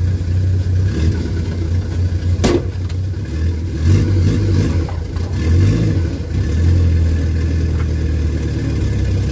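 Turbocharged Chevrolet Chevette engine running at low revs, heard from inside the cabin as a steady low hum. The revs rise and fall briefly about five and a half seconds in, and there is one sharp click about two and a half seconds in.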